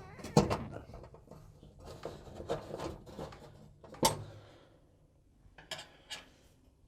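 Metal clunks and rattles of a fan oven element being fitted back onto the back wall of an oven cavity: a sharp knock just after the start, another about four seconds in, then two lighter taps near the end.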